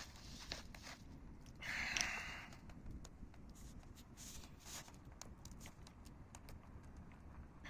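Campfire crackling faintly, with scattered sharp pops and a short, louder hissing rush about two seconds in.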